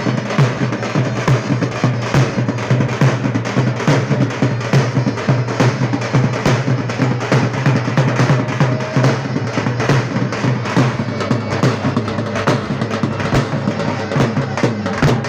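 Davul, the Turkish double-headed bass drum, beaten in a fast, steady dance rhythm, with a steady low sustained tone underneath.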